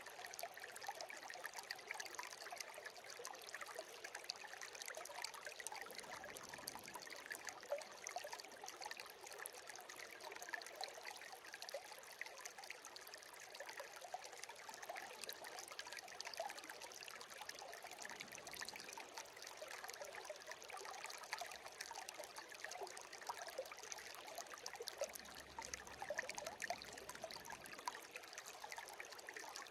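Shallow brook babbling and trickling steadily.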